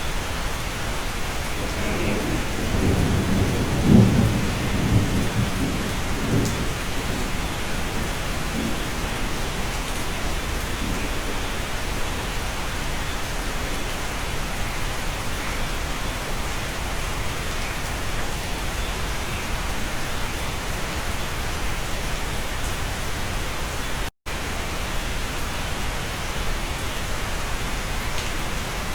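Steady rain on a cabin, with a roll of thunder rumbling from about two seconds in to about six, loudest around four seconds. The sound cuts out for an instant near the end.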